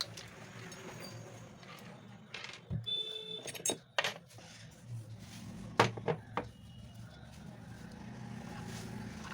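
Clicks and knocks of small metal parts being handled, with a brief ringing tone about three seconds in, over a low steady hum.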